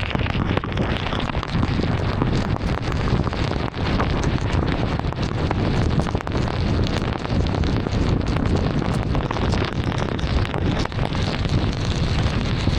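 Heavy rain on a moving car, with tyres on the wet road: a steady rushing noise full of small, sharp drop hits.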